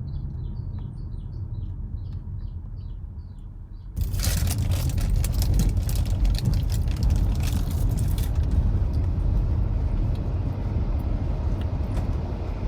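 Low vehicle rumble with a small bird chirping in quick repeated notes, then about four seconds in a sudden loud, steady rushing noise sets in and runs on; the rushing is like falling water but is taken for an air conditioner.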